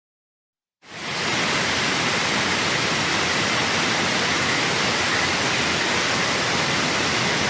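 A steady, even rushing noise like hiss, with no pitch or rhythm, starting abruptly about a second in after silence and beginning to fade near the end.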